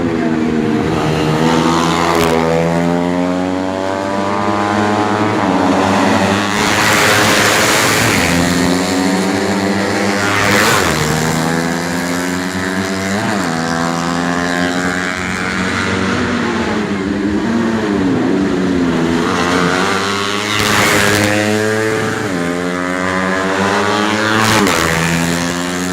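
Four-stroke 125 cc underbone racing motorcycles running at full throttle around the circuit, engines rising and falling in pitch through the gears. Several bikes swell loudly as they pass close, about five times.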